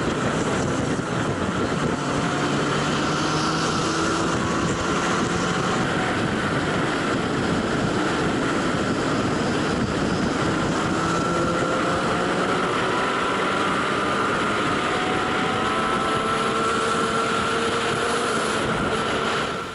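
Sportbike engine at high speed under heavy wind noise, its pitch climbing slowly in several long pulls.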